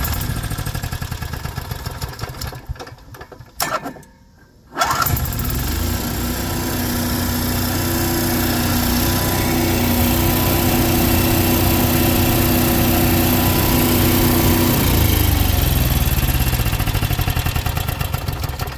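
Onan 4000 RV generator's engine running roughly, then dying out about four seconds in and firing up again about a second later, settling into steady running with a steady hum. The owner suspects a fouled spark plug from running lean.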